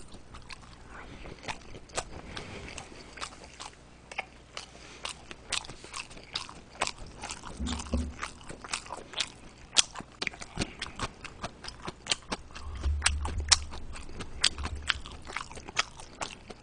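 A man chewing a mouthful of steamed hand-made dumplings (mandu) close to the microphone: a steady run of small wet mouth clicks and smacks, two or three a second.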